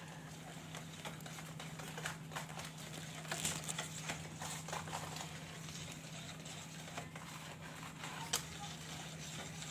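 Light, irregular taps and scrapes of a utensil stirring a thick homemade soap mixture in a container, over a steady low hum.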